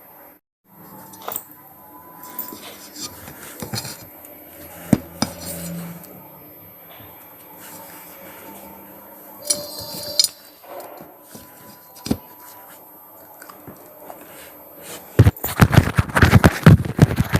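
Scattered small clicks and clinks of handling, then about fifteen seconds in, loud close-up crunching of red cheese-pizza crunchy snacks being bitten and chewed.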